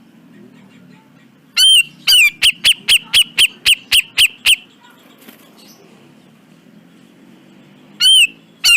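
Cucak jenggot (brown-cheeked bulbul) calling: a loud note about a second and a half in, then a fast run of sharp, repeated notes, about four a second, lasting about two seconds. A second call starts near the end. A steady low hum runs underneath.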